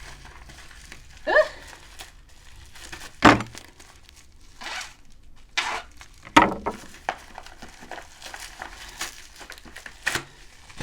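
Plastic packaging crinkling and tearing as a package is opened by hand, with scattered clicks and two louder knocks. A short rising vocal sound comes a little over a second in.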